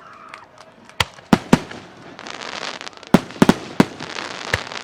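Aerial fireworks shells bursting: a few sharp bangs about a second in, then a run of bangs over a dense crackle from about two seconds on.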